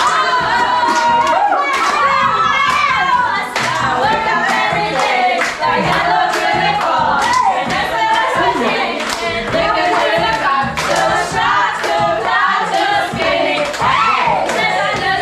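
A group of voices singing together, with hand clapping keeping the beat about twice a second.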